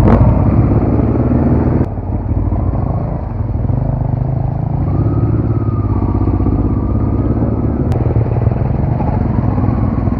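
Dual-sport motorcycle engine running while the bike is ridden. The level drops suddenly about two seconds in, then holds steady.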